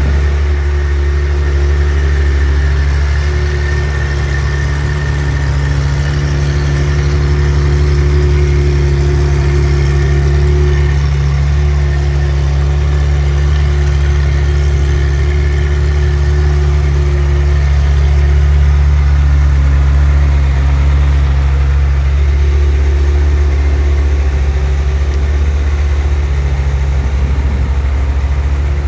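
Ferrari F355's 3.5-litre V8 idling steadily, a deep even engine note with no revving.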